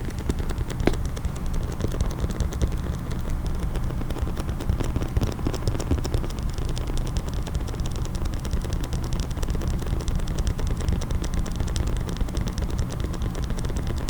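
Fast fingernail tapping on a hard case, a dense run of small clicks over a steady low hum.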